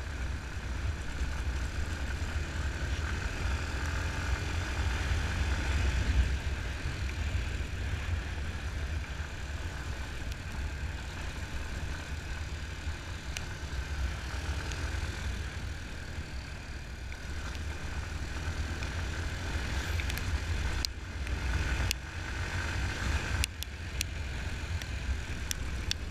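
Yamaha Fazer 250's single-cylinder engine running steadily under a ride on a packed-dirt road, over a heavy low rumble. A few sharp ticks come near the end.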